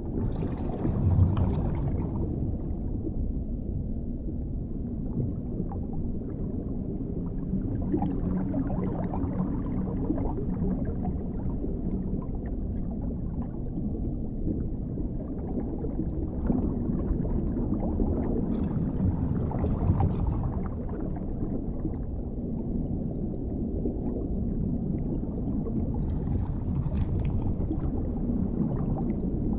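Underwater ambience: a deep, muffled rumble of water that swells and ebbs every few seconds, with faint gurgling.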